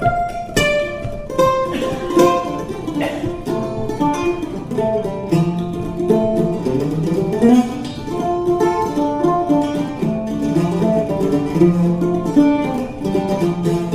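Mandola picked in an instrumental break of a blues song, a steady run of quick plucked notes.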